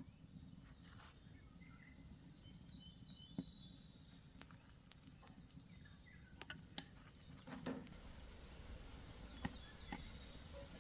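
Faint outdoor ambience: a low steady rumble with birds chirping softly near the start and again near the end, and a few scattered small clicks.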